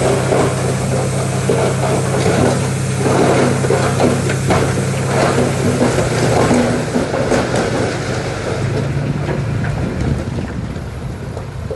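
Heavy earthmoving machine's diesel engine running steadily, with a rough clatter and scraping of stone over it that eases off after about eight seconds, when the engine note shifts.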